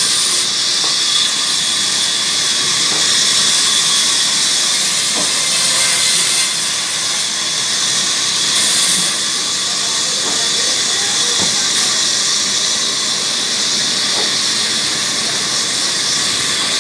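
Sawmill saw cutting through a log, making a loud, steady hiss.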